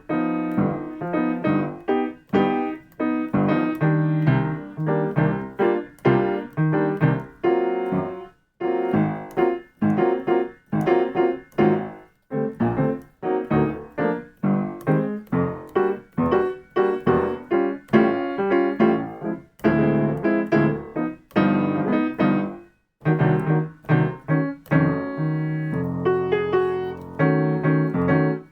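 Solo piano practising jazz comping patterns: short chords struck again and again in a rhythmic accompaniment figure, with a few brief breaks between phrases.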